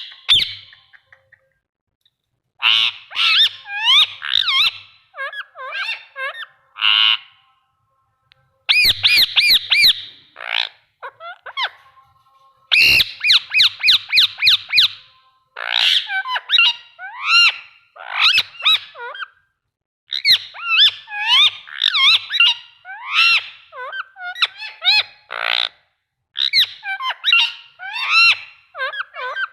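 Indian ringneck parakeet calling and chattering in bursts of high, sharp calls with sliding pitch, with a few fast runs of rapidly repeated squawks.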